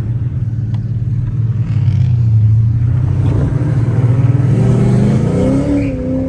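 Car engine with a loud exhaust running with a steady low rumble, then climbing in pitch about four and a half seconds in as it revs and pulls away.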